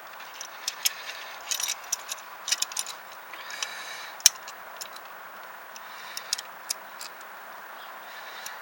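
Hand tools and metal parts clinking and clicking irregularly during work on the A/C compressor clutch, with one sharp knock about four seconds in, over a steady hiss.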